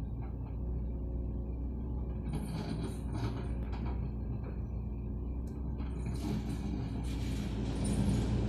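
An engine running steadily under rock loading, with two spells of scraping and clattering about two seconds in and again about six seconds in as batu cadas rock is loaded onto a truck.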